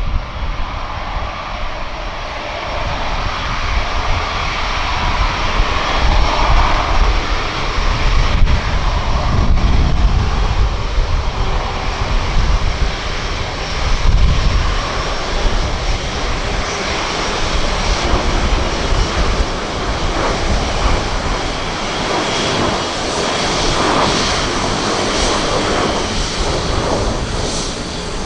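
Jet airliner engines running, a loud steady rumble with a high whine that grows stronger over the last several seconds.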